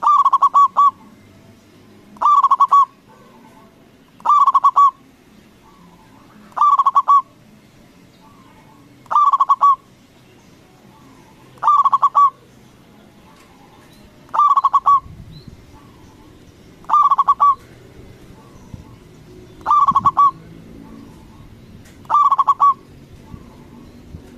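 Zebra dove (perkutut) singing its cooing song over and over: ten short phrases of quick rolling notes, one about every two seconds.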